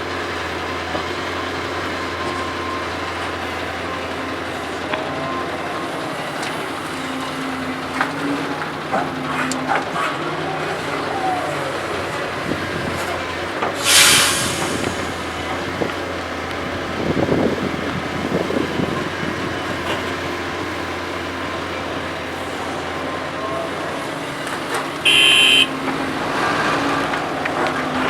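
Heavy diesel machinery, an excavator working beside a dump truck, running steadily. About halfway through there is a sharp hiss. A rumble follows a few seconds later, and near the end a short horn-like tone lasts about a second.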